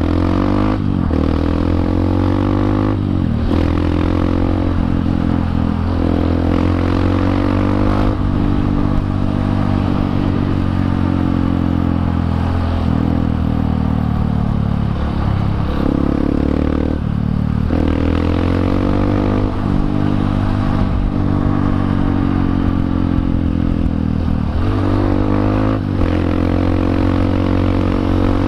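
Honda CRF150L's single-cylinder four-stroke engine running through a Norifumi aftermarket exhaust while being ridden. The revs climb and fall repeatedly, with several sharp breaks where the revs drop away and build again.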